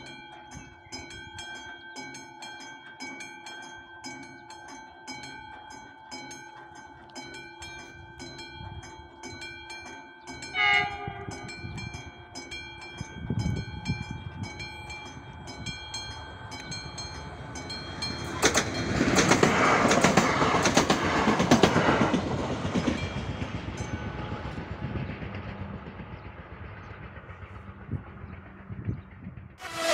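Level-crossing warning bell ringing in steady, evenly repeated strokes while a ŽSSK class 861 diesel multiple unit approaches. The train gives a short horn blast about a third of the way in. It then passes over the crossing, loudest about two-thirds through with its wheels clicking over the rail joints, and fades away.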